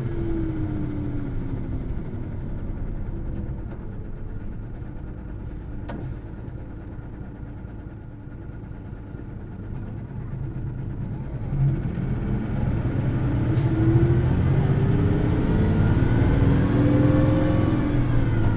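Hino Blue Ribbon City Hybrid diesel-electric city bus running: the engine note falls as the bus slows, stays lower for several seconds, then rises again as it pulls away about eleven seconds in. A high whine climbs and falls during the acceleration near the end.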